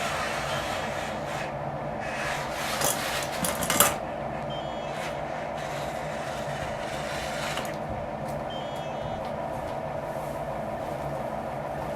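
Hydraulic pump and electric motors of a remote-controlled construction machine running with a steady whine. A burst of scraping in the soil comes a couple of seconds in and ends in a sharp knock, and short faint beeps repeat every few seconds.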